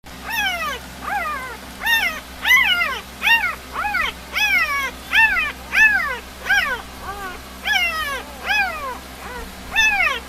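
Three-day-old puppy crying: a quick series of high-pitched squeals, each rising and then falling in pitch, about one and a half a second.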